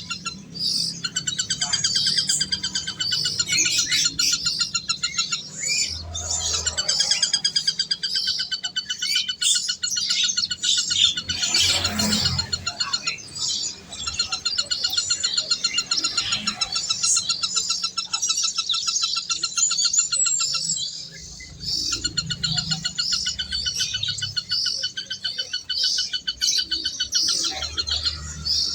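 Birds chirping continuously, many rapid calls overlapping.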